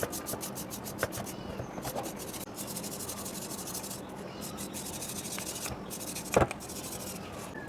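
Rapid back-and-forth abrasive strokes on the metal of an old hammer being cleaned up by hand, several strokes a second with short pauses, and one sharp knock about six seconds in.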